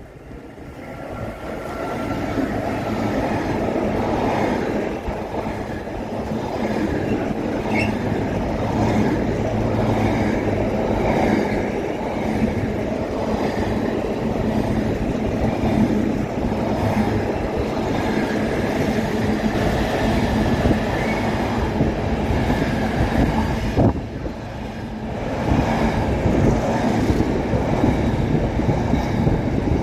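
Intermodal container freight train hauled by a DRS Class 88 locomotive passing through the station: a long, steady rolling noise of the container wagons on the rails. It builds over the first couple of seconds and dips briefly near the end.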